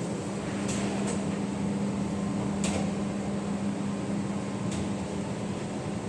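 Steady mechanical hum with a few light clicks or taps over it.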